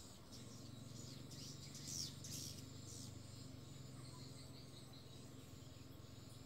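Faint high swiftlet chirps and twitters, bunched in a short flurry about two seconds in, over a steady low hum.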